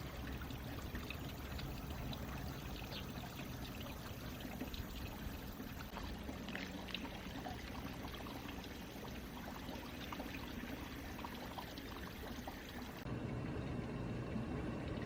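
Running water splashing and babbling steadily, like a small stream. Near the end it changes abruptly to a duller, lower rush.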